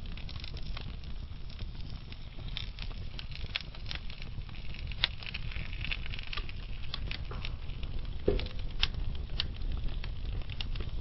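Wood logs burning in a fireplace: a low steady rumble of the fire with frequent irregular crackles and pops, the loudest pop about eight seconds in.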